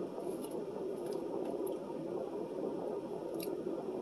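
A person chewing food close to the microphone, with a few faint clicks, over a steady low hum.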